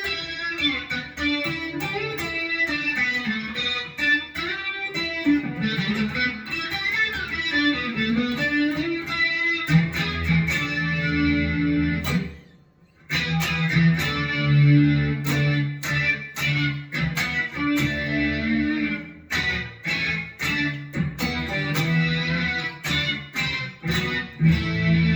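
Electric guitar played through a Boss SY-200 guitar synth pedal on its sync lead preset, into a Joyo American amp simulator: a bright synth lead with notes that bend up and down. About halfway through it breaks off briefly, then comes back with repeated low notes and a quick picked line.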